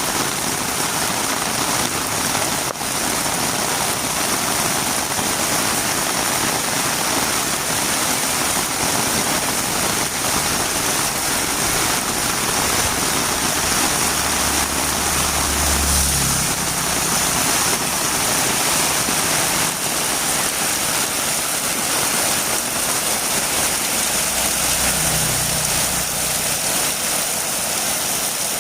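Heavy rain falling in a steady, even hiss. A low hum rises briefly twice, about halfway through and again near the end.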